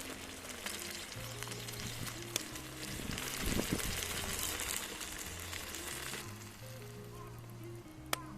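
Food sizzling as it fries in a titanium frying pan, loudest for about three seconds in the middle and then dropping away suddenly, with a couple of sharp clicks. Background music with a steady bass line plays throughout.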